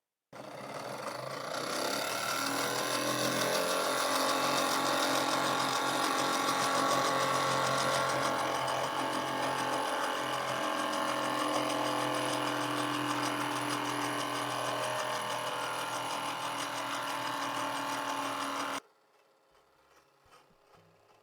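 Wilesco model steam engine running steadily at speed, a dense fast mechanical whirr with hiss. It starts suddenly and cuts off abruptly near the end.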